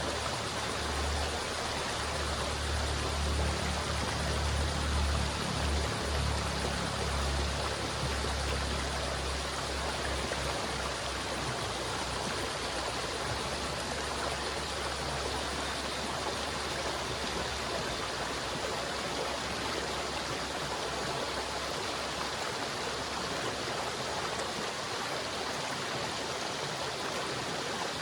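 River water flowing steadily, a dense even rush. A low rumble lies under it for the first ten seconds or so, then fades away.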